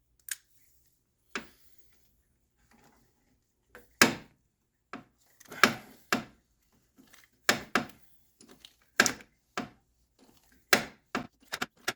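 Sharp metal clicks and clinks from a 27 mm socket and long extensions being fitted and worked onto a Mini Cooper's oil filter housing, about a dozen separate knocks that come closer together near the end.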